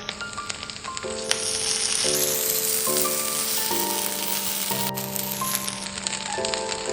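Paneer cutlets sizzling as they fry, a steady crackling hiss that swells from about a second in, under background music.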